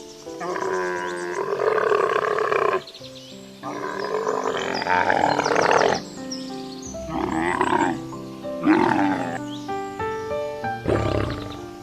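A large animal's loud calls, five in a row: two long ones of two to three seconds each, then three shorter ones, with background music underneath.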